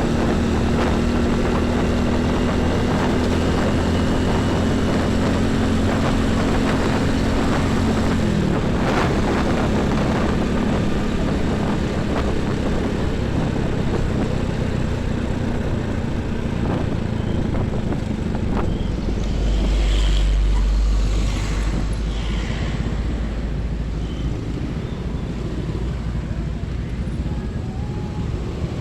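Heavy diesel trucks and buses passing on a busy highway with constant traffic noise. One engine's hum drops in pitch about eight seconds in as it goes by, and a louder low rumble of a close pass comes about twenty seconds in.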